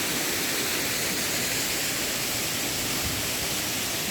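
Steady rushing of a waterfall, the water pouring down a small stone dam.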